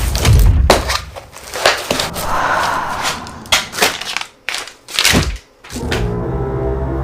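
A run of sharp knocks, thuds and clatters, with a short rustle in between, then a steady low hum with a held tone from about six seconds in.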